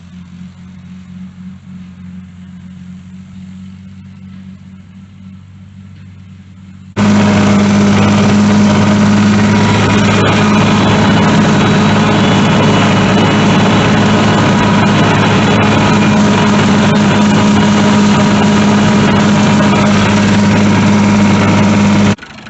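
An old farm tractor engine running steadily while driving a bush hog rotary mower with new blades. About a third of the way in it abruptly becomes much louder and stays loud until just before the end.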